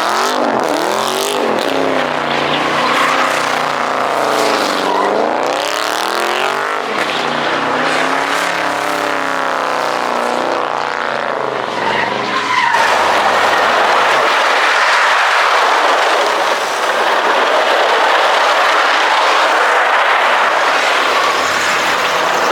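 A car engine revving hard, its pitch sweeping up and down over and over. About halfway through this gives way to a long, steady squeal of spinning tyres that runs to the end.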